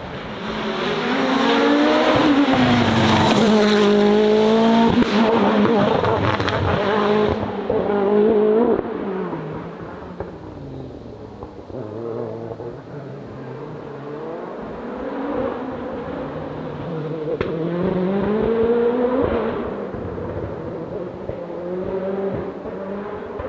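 Hillclimb race car engine revving hard, its pitch climbing and dropping again and again with the gear changes, loud for the first several seconds. It then grows fainter, with another run of rising revs later on.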